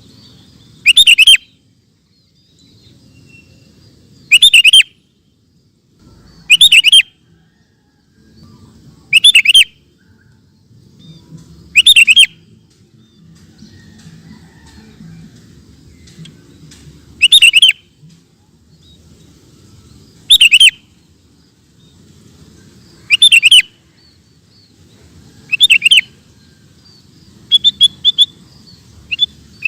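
Sooty-headed bulbul (kutilang) singing a short, loud phrase over and over, about every three seconds. Near the end come a few quicker short notes. A faint low rumble sits underneath.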